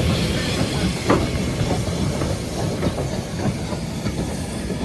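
Steam train on the move: a steady hiss of steam and running noise, with the odd sharp click of wheels over rail joints, easing off slightly toward the end.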